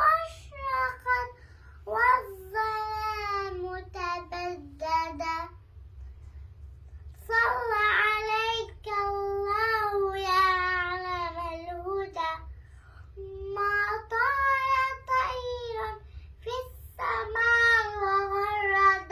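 A young girl singing an Islamic nasheed unaccompanied, in sung phrases with short breaks, the longest about six seconds in.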